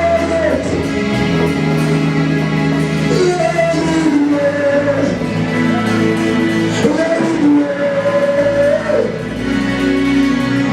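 Live gospel worship music: a singer's voice held on long notes over a band with guitar and bass.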